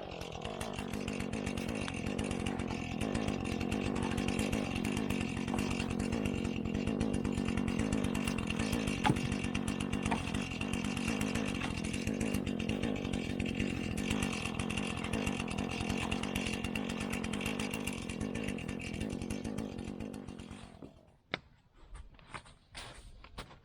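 Two-stroke chainsaw running at a steady speed while firewood is sawn. The saw stops about twenty seconds in, and a few scattered knocks follow.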